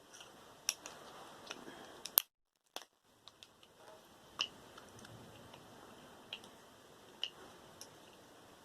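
Scattered clicks and taps of small plastic and metal parts being handled and prised apart while a computer cooling fan is dismantled by hand, with one sharp click about two seconds in, followed by a moment where the sound cuts out completely.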